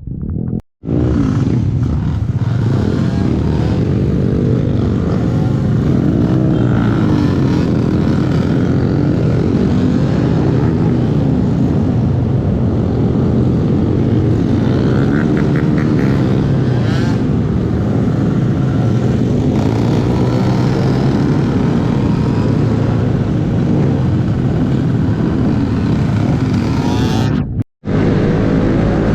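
Small Honda 125 cc single-cylinder minibike engine running on the road, its pitch rising and falling as the rider speeds up and eases off. The sound drops out for an instant about a second in and again near the end.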